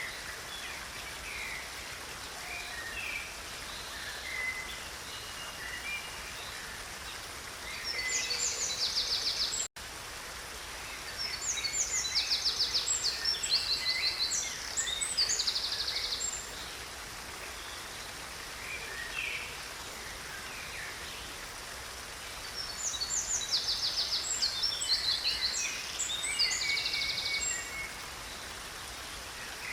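Steady rush of a stream with songbirds: three bouts of fast, buzzy trilled song about eight, twelve and twenty-three seconds in, over scattered short chirps. The sound drops out for an instant about ten seconds in.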